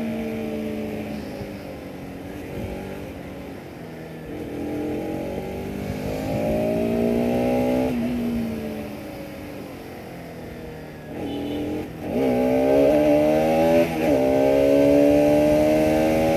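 Bajaj Pulsar RS200's single-cylinder engine and exhaust under way. The engine note falls off, rises under throttle and falls again, then from about two-thirds in it is revved hard through quick gear changes, its pitch climbing and dropping sharply at each upshift.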